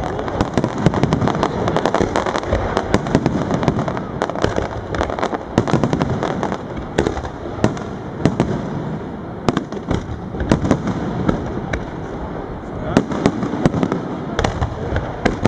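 Aerial fireworks shells bursting: a dense, irregular string of sharp bangs and crackles, many per second, with louder reports about 7, 9.5, 10.5 and 13 seconds in.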